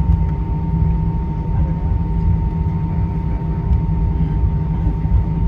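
Steady in-flight cabin noise of an Airbus A320: a deep, even rumble of engines and airflow with a constant thin whine above it.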